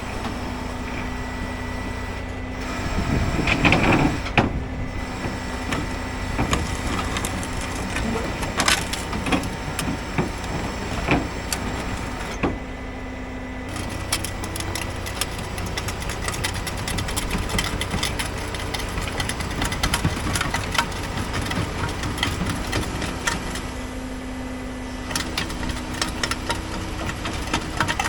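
A vehicle engine running steadily under many irregular clicks, knocks and cracks, with the loudest cluster about four seconds in.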